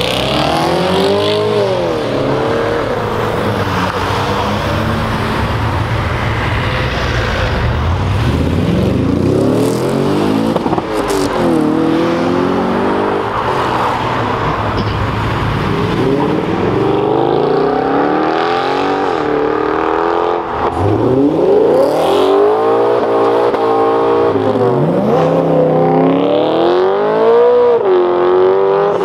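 A stream of cars driving away one after another, their engines accelerating hard, the pitch climbing and dropping again at each gear change, over continuous road and tyre noise.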